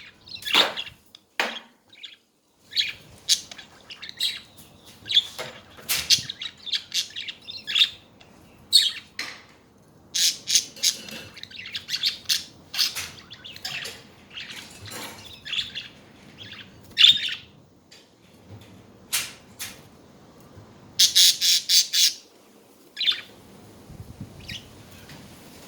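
Budgerigars chattering: a busy, irregular stream of short, sharp squawks and chirps, with a quick run of calls about 21 seconds in.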